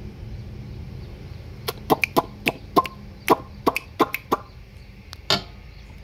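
A bird clucking: about a dozen short, sharp clucks in quick succession in the middle, then one more near the end.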